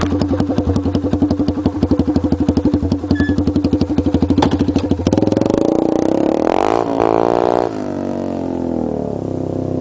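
A 2008 Yamaha TT-R125 dirt bike's single-cylinder four-stroke engine idling with an even chug, then revving up about five seconds in, its pitch rising for a couple of seconds before falling back to a lower, steadier run.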